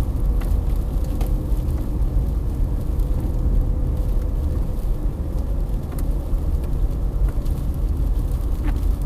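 Strong gusty wind buffeting the microphone: a loud, uneven low rumble that rises and falls, with a few faint clicks.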